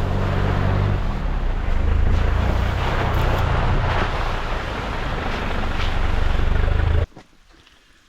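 Off-road truck driving, with a steady engine note under road and wind noise. The sound cuts off abruptly about seven seconds in.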